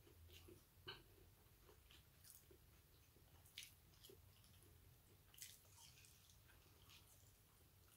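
Faint chewing and small mouth clicks from a person eating bits of food picked off a plate, with a few slightly louder clicks about a second in, in the middle and past halfway.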